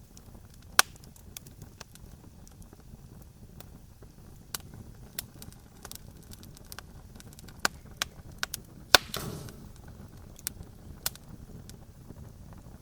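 Campfire crackling: irregular sharp pops and snaps of burning wood over a low steady rumble. The loudest pops come about a second in and about nine seconds in, and the second is followed by a brief hiss.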